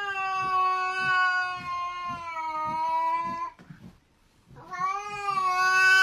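Cat yowling in two long, drawn-out calls, each holding a steady pitch that sinks slightly. The first breaks off about three and a half seconds in; the second starts about a second later and carries on.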